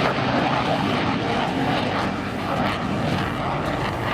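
Military aircraft engine noise: a steady, dense rush of engine sound.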